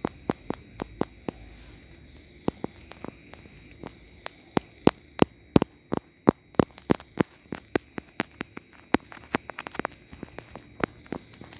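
An irregular series of sharp clicks or taps, at times three or four a second, some much louder than others.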